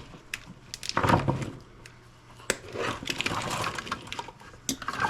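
Hands working a bundle of stranded wire and its plastic connector clips: scattered sharp clicks and snaps with a few seconds of rustling handling noise.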